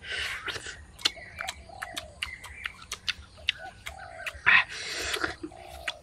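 A person eating grilled pork bone: wet chewing and lip-smacking clicks, with two louder breathy puffs, one at the start and one about four and a half seconds in.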